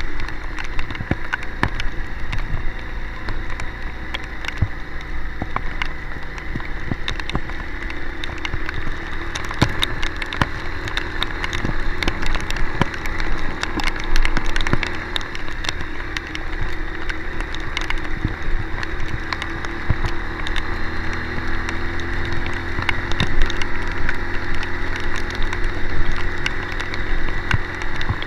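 A vehicle's engine running steadily, its pitch shifting about twenty seconds in, with rain spattering and many sharp clicks and knocks over a steady rushing noise.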